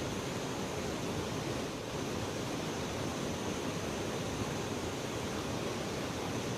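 Steady rushing of river water, an even wash of noise with no breaks or changes.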